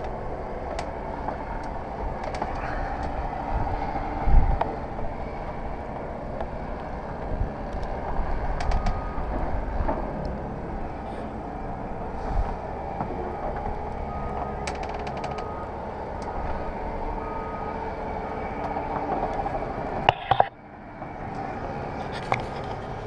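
Steady running noise of a vehicle, a low rumble with a hum, broken by a few knocks. About 20 seconds in the sound drops out briefly and comes back slightly changed.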